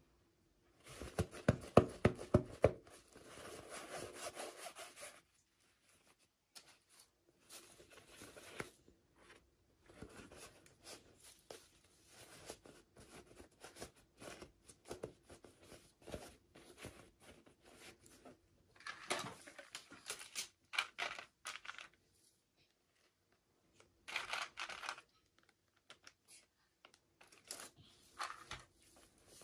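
Toy packaging being handled and opened by hand: irregular rubbing, scraping and tearing in bursts with short pauses, with a cluster of sharp taps and clicks about a second in.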